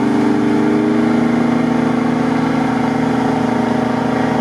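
Off-road 4x4's engine running loud and steady under load as the vehicle crawls up a steep slope.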